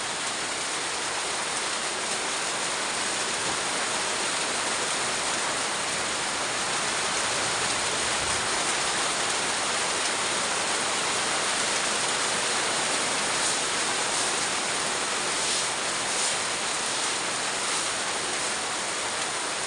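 Heavy rain pouring down steadily in an even hiss.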